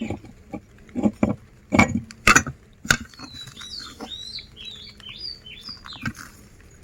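Hard candy lollipop being crushed in a meat grinder: a string of sharp cracks and crunches, then a run of short, high squeaks about halfway through.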